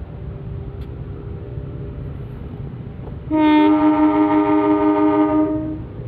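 Locomotive air horn sounding one long chord of several steady tones for about two and a half seconds, starting about halfway through, over a low rumble of idling train engines.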